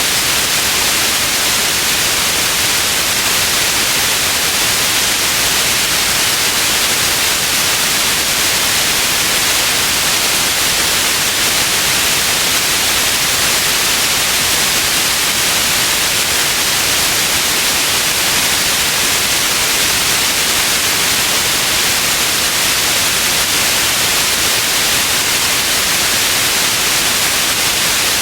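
Steady white noise: an even, unchanging hiss, strongest in the upper range, with no breaks or events.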